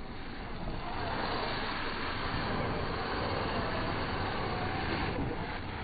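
Traxxas TRX-4 RC crawler's electric motor and geared drivetrain running, a faint whine that wavers in pitch over a steady hiss.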